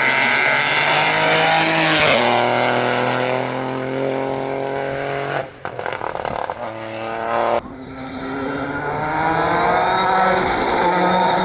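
Rally car engine held at high revs, the level dipping with a rapid crackle about halfway through, then rising in pitch again as it accelerates hard.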